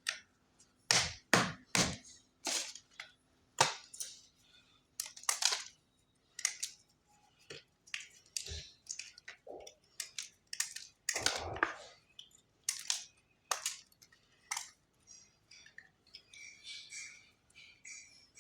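Khadiya chalk being snapped and crushed: a string of sharp, irregular cracks about one or two a second, with softer, finer crumbling near the end.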